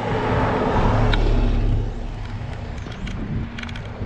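A bus engine running as it passes close by: a loud low rumble with a steady hum that swells over the first two seconds and then eases off, over road and wind noise.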